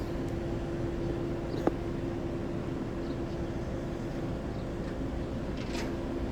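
Car driving slowly, its steady engine hum and road rumble heard from inside the cabin, with one sharp click about a second and a half in.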